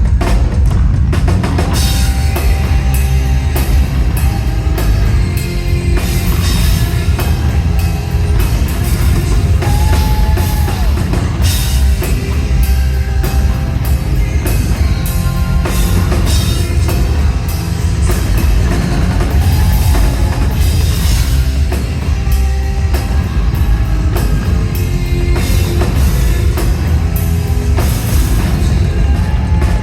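Live hard rock band playing loud, with a driving drum kit, heavy bass and distorted guitars.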